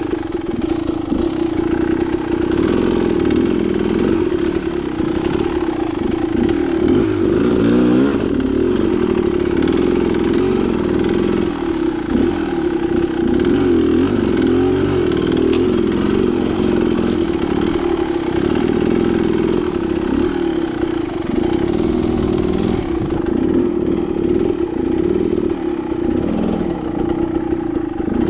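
Dirt bike engine running under load, its pitch rising and falling with the throttle.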